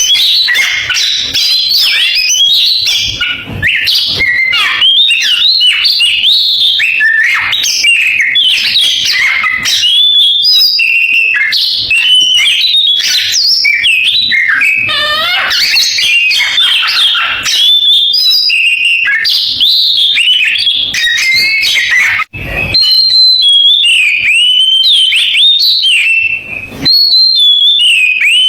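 Oriental magpie-robin (kacer) singing a continuous, canary-like song of rapid whistles, chirps and trills, with a short break about 22 seconds in.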